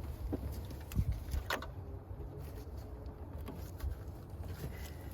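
Scattered metallic clicks and knocks of a wrench being worked against a car's serpentine belt tensioner, the sharpest about one and a half seconds in, over a steady low rumble.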